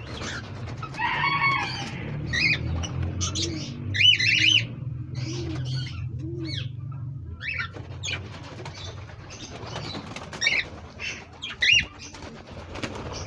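Pet pigeons cooing, with wings flapping, and short, sharp bird chirps over the top; the cooing eases off after about seven seconds while the chirps keep coming.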